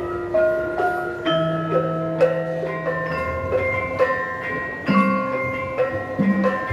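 Javanese gamelan ensemble playing: bronze metallophones struck in a steady pulse, each note ringing on and overlapping the next, with a deeper held tone in the middle.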